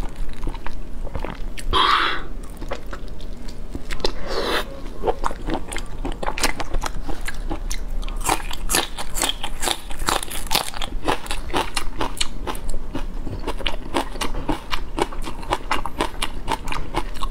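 Close-miked eating: a raw green vegetable stalk bitten and chewed with a rapid run of crisp crunches, several a second, from about five seconds in. Before that come two short hissing noises.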